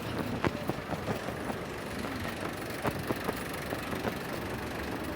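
Road traffic running by as a steady low rumble, with quick footsteps on the pavement clicking through it, more of them in the first couple of seconds.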